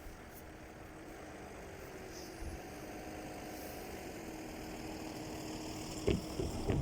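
A train approaching on the rails, its running noise growing steadily louder, with the wheels starting to clack over rail joints near the end.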